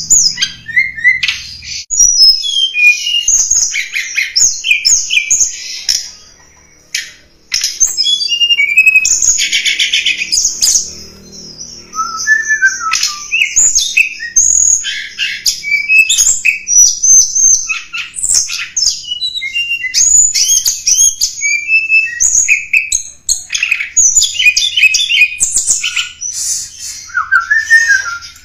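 Tledekan gunung birdsong: a dense run of high, rapid chirps, twitters and short sweeping whistles, with a brief lull about six seconds in. It is a lure call used to attract wild tledekan or to train caged ones.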